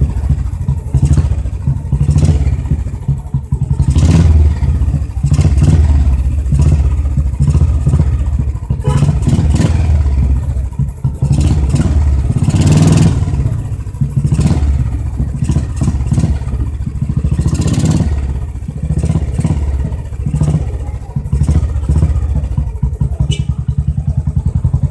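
Motorcycle with a loud exhaust, its engine running with a deep pulsing thump while riding, the level swelling and easing as the throttle changes.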